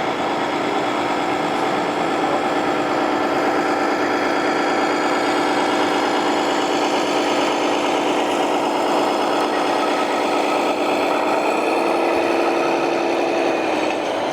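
Radio-controlled scale truck's engine sound, a steady diesel-like running hum that steps up slightly in pitch near the end.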